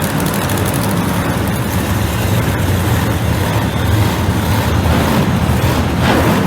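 Monster truck engine running loudly and steadily.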